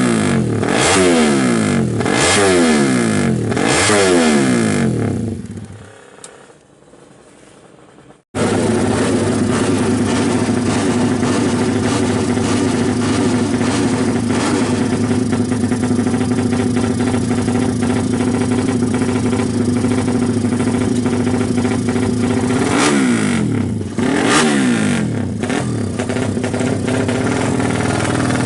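Suzuki FU drag-bike engine, bored to 200 cc and breathing through twin exhausts, revved in quick blips about once a second, then dying down. After a sudden return it runs at a steady fast idle, with two more sharp blips near the end.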